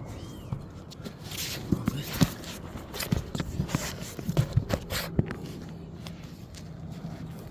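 An irregular run of knocks, clicks and scuffs lasting about four seconds, like footsteps and handling noise, over a faint steady hum.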